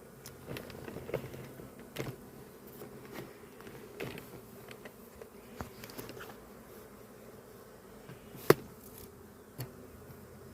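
A disturbed swarm of honeybees buzzing steadily around the hive box, the bees upset after being shaken in. Scattered light taps and knocks sound over the buzz, with one sharp knock about eight and a half seconds in.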